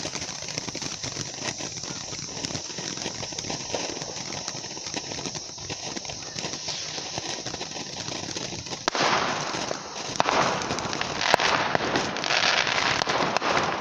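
Fireworks crackling with scattered pops, then a firework fountain igniting about nine seconds in and spraying with a loud, steady hiss and crackle that grows louder a second later.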